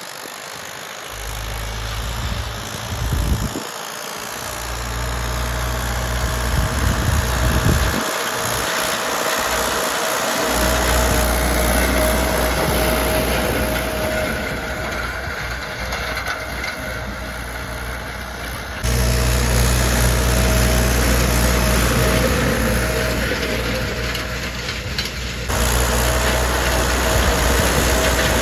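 Belarus tractor's diesel engine running steadily. The sound shifts abruptly about 19 seconds in and again near 25 seconds, each time becoming louder.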